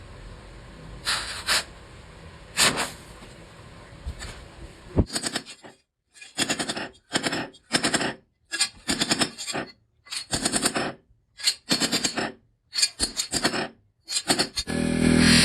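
Hammer blows on metal at the forge: a few single strikes, then a run of short bursts of rapid, closely spaced hammer strikes. Music comes in near the end.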